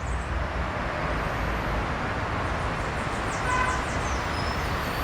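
Steady city traffic noise with a low rumble, and over it a quick series of high, thin, falling chirps from birds at a nest, starting about halfway through.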